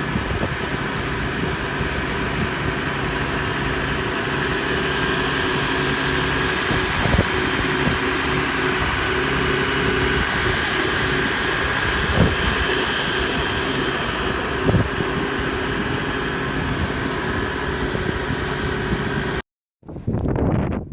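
An engine running steadily at idle, with a few brief louder sounds over it; it cuts off suddenly near the end.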